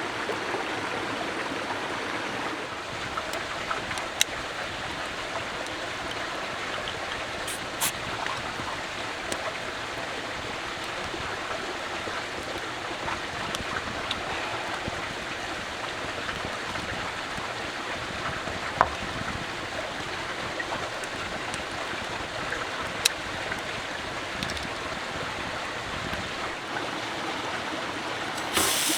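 A stream flowing steadily, with a few sharp ticks scattered through it.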